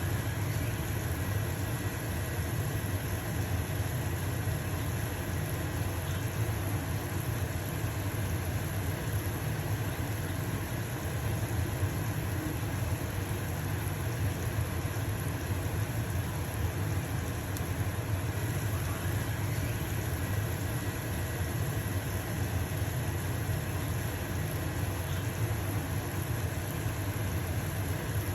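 Stove-top range hood fan running with a steady low hum, over the even hiss of a pancake sizzling in a frying pan.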